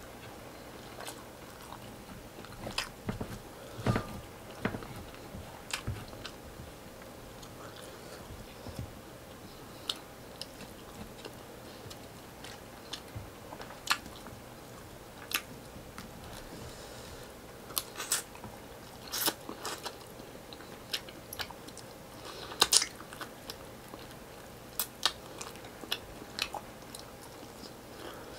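Close-miked chewing and crunching of fried tilapia and rice eaten by hand, with irregular sharp crunches and clicks. The loudest crunches come about three-quarters of the way through.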